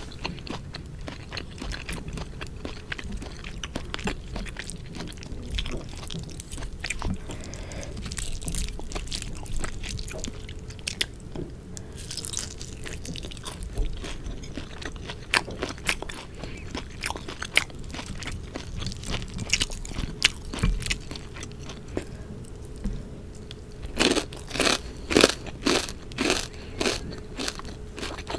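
Close-miked chewing and crunching of food in the mouth, wet clicks and crunches all through, with a run of louder crunches about two a second near the end.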